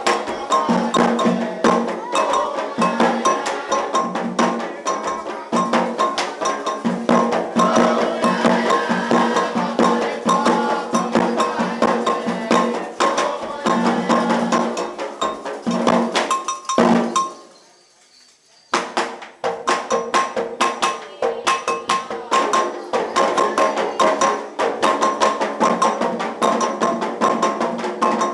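Candomblé ritual music: hand drums beaten in a fast, dense rhythm with a metal bell (agogô) struck over them. The playing breaks off abruptly about two-thirds of the way through and starts again about two seconds later.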